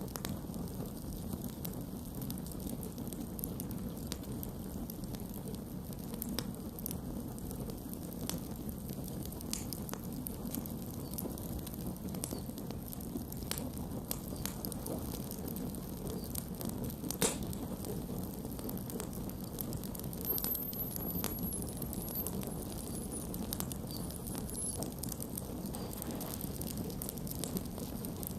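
Campfire burning, with a steady low rumble of flames and scattered crackles and pops of burning wood, and one sharper pop about two-thirds of the way through.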